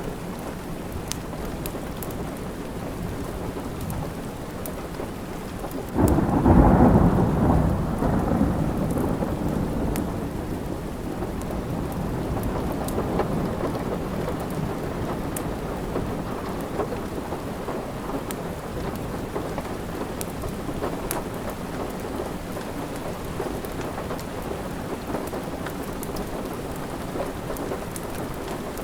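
Steady rain with a roll of thunder that breaks suddenly about six seconds in and rumbles away over several seconds. Small sharp crackles of a wood fire are scattered throughout.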